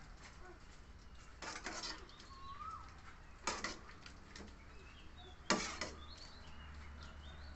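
Faint bird calls, chirps and short rising-then-falling notes, over a low steady hum. A short noisy burst, a rustle or scrape, comes about every two seconds.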